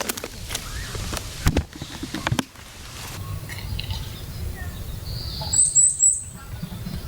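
A run of sharp knocks and clicks from gear being handled, then a bird chirping three quick times about six seconds in, over a low steady outdoor rumble.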